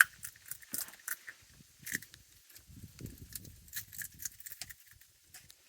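Raccoons eating peanuts, with scattered small clicks and crackles of shells and soft rustling.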